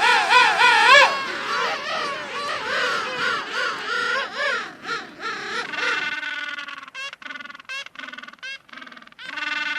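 Loud, wavering animal calls that rise and fall in pitch, then, about six seconds in, a run of short quacks from ducks, about two a second.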